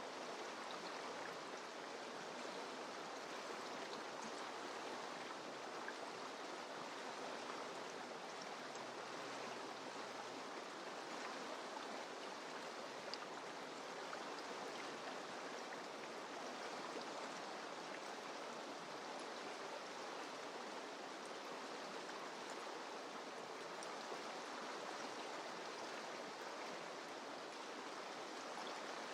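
Mountain river flowing: a steady rush of water over rocks with small splashes and trickles in it.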